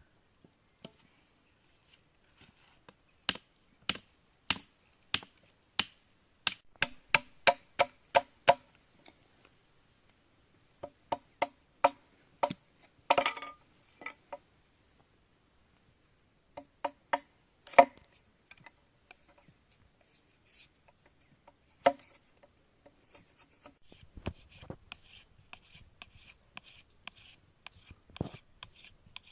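A series of sharp knocks on wood, in runs of a few strokes a second with pauses between, as in cutting or fitting sticks for a simple bird trap. Near the end come softer scraping and small ticks.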